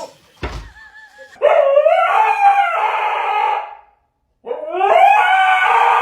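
A dog howling: two long howls with a short break between them, each rising at the start and then held, preceded by a faint wavering whine.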